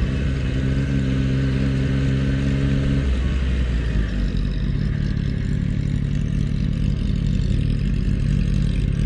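Motorcycle engine running while riding, holding a steady note, then settling to a lower note about three or four seconds in as it eases off.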